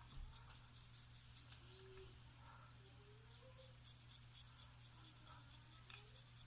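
Near silence: the faint scratching clicks of a Gillette Aristocrat safety razor cutting stubble in short strokes, over a steady low hum.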